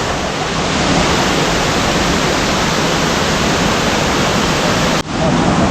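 Kuang Si waterfall's water rushing down, a loud steady roar of falling water, broken by a momentary drop about five seconds in.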